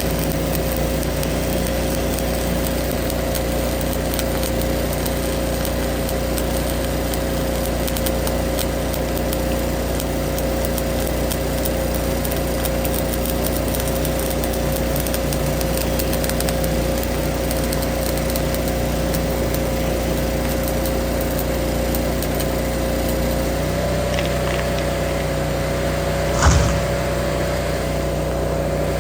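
An engine running steadily at a constant speed, with a slight change in its tone about 24 seconds in and one sharp knock about 26 seconds in.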